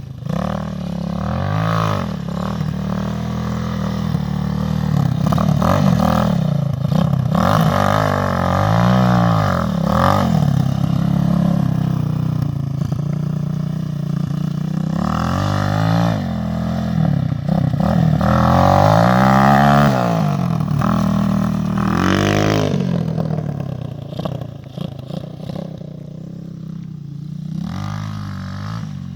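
250 cc dirt bike engine being ridden, its revs climbing and dropping again and again in a series of swells. It is loudest through the middle and drops to a lower, quieter running near the end.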